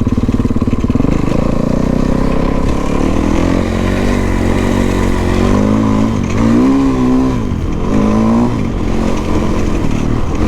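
Dirt bike engine running hard, its revs rising and falling several times as the throttle is worked.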